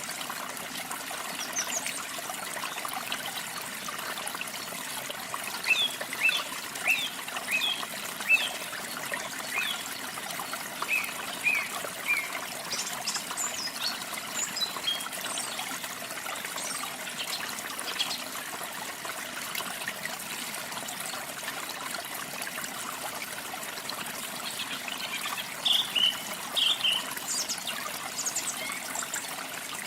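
Waterfall water trickling and splashing steadily, with small birds chirping over it in quick runs of short notes, one cluster about a fifth of the way in and another near the end.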